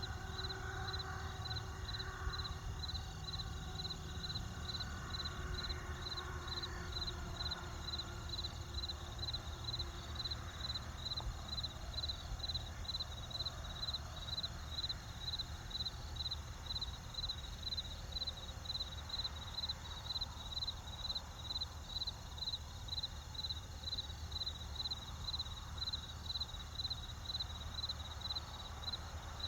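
A cricket chirping in a steady, even rhythm, about one to two chirps a second, over the low crackle of a campfire.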